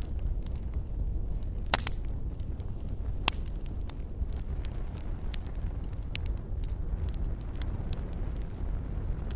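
Wood fire in a fireplace crackling: irregular sharp pops and snaps over a steady low rumble of the flames, the loudest pops just under two seconds in and again a little past three seconds.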